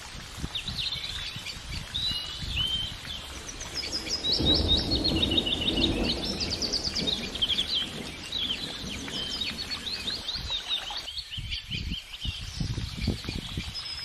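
Small songbirds chirping, with quick repeated trilled notes, and a low rumbling noise in the middle.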